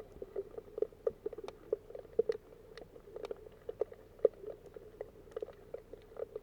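Underwater ambience picked up by a submerged camera: a stream of irregular sharp clicks and crackles, several a second, over a faint background.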